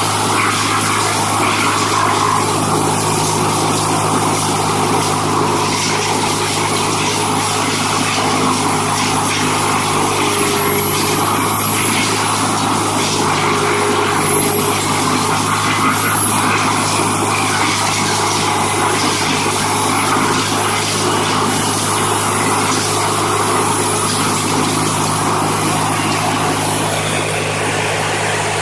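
Steady, loud running of a heavy machine's engine, a constant hum under a wide mechanical noise with no clear breaks or impacts.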